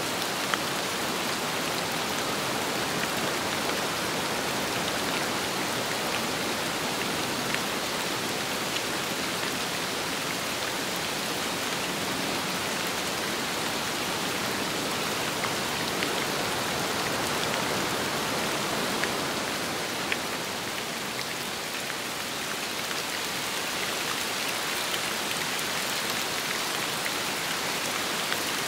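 Steady rain falling, with the patter of individual drops hitting a surface. The rain eases slightly for a moment a little past the middle.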